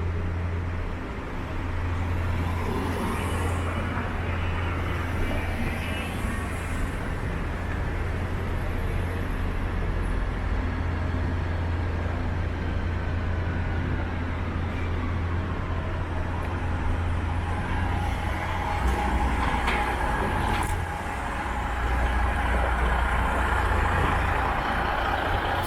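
City street traffic: a steady low engine hum from vehicles running nearby over a wash of road noise, with one vehicle's pitch falling as it passes around the middle.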